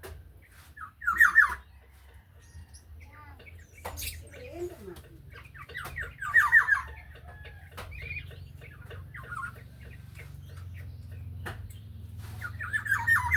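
Black-naped oriole (kepodang) singing: three short, loud phrases about five seconds apart, each a quick run of notes falling in pitch, over a steady low hum.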